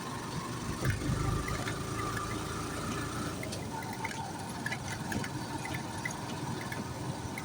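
Steady road and engine noise inside a moving vehicle, with a faint tone in the first few seconds and scattered light clicks.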